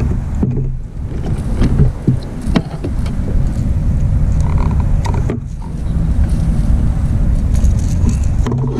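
Low wind rumble buffeting the microphone, with scattered knocks and clicks of hands handling the fish and gear in a kayak.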